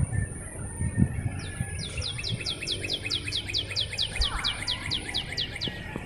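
A bird singing a long, fast series of high, down-slurred notes, about five a second, that starts shortly after the beginning and stops near the end.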